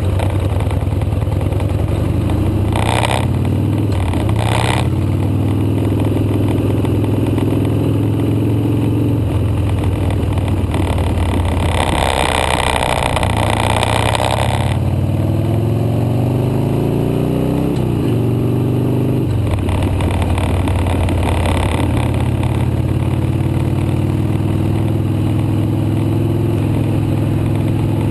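Motorcycle engine running on the road, its pitch repeatedly climbing under acceleration and then dropping at each gear change. Short bursts of rushing noise come about three and four and a half seconds in, and a longer, louder one comes about midway.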